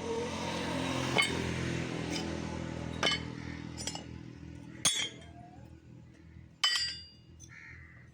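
Irregular sharp metal-on-metal clinks, about seven in all, each with a brief high ring, from steel pieces being knocked or set down in a metalworking shop. Under the first few clinks a machine hum fades away.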